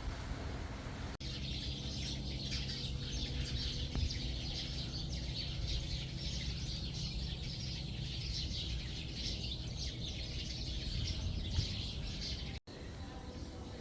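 Many birds chirping and twittering together in a dense, continuous chorus over a steady low rumble, starting abruptly about a second in and cutting off suddenly near the end.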